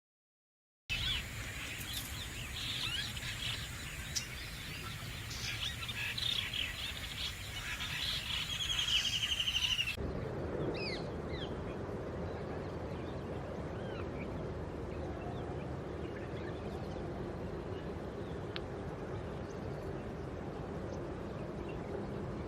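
Several birds calling and chirping together, with a fast, even trill just before the sound changes. About ten seconds in, it changes abruptly to a steady low noise with only a few faint bird notes over it.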